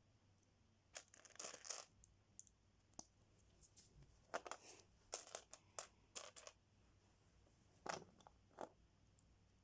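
LEGO pieces and their plastic packaging being handled: faint scattered clicks and short crinkly rustles, in clusters about a second in, from about four to six and a half seconds in, and twice near the end.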